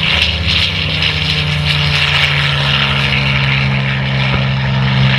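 Propeller aircraft's piston engine running steadily at a constant pitch, with no rise or fall of a passing flyby.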